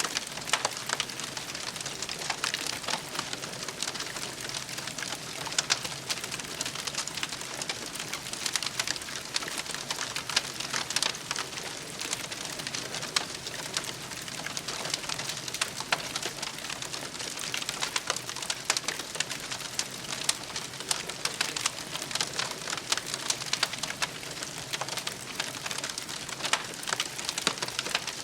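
Campfire crackling: a dense, steady run of small pops and snaps over a soft hiss.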